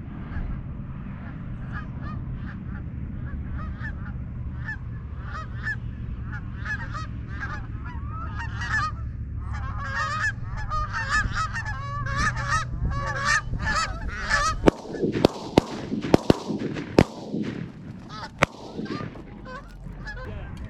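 A flock of geese honking, the calls growing busier and louder as they come in, then five or six shotgun shots fired in quick succession over about four seconds.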